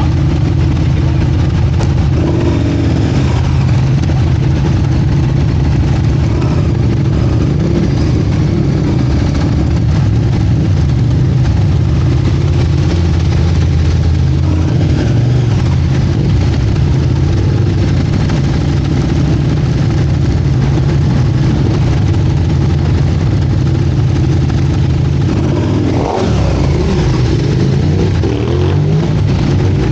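Motorcycle engine idling steadily, its pitch rising near the end as it is revved.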